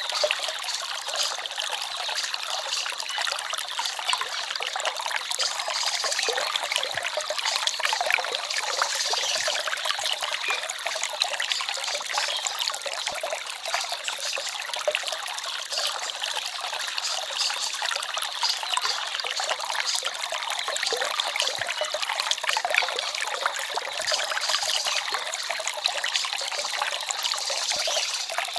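Small forest stream babbling steadily: a dense, even trickling and splashing of water with little low rumble.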